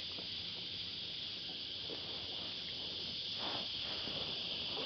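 Cicadas droning in the trees: a steady, unbroken high-pitched chorus.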